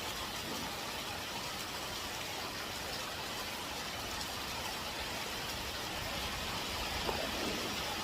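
Typhoon rain falling steadily and heavily, an even hiss of rain with one small click about seven seconds in.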